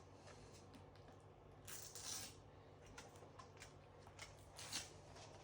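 Near silence: room tone with a steady low hum, and a few faint rustles and soft knocks.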